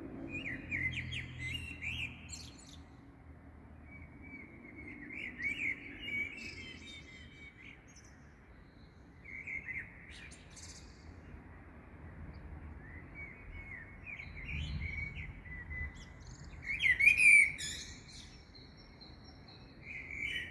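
Small songbirds chirping and twittering in a dawn chorus, in short clusters of quick notes every few seconds, with the loudest burst about seventeen seconds in.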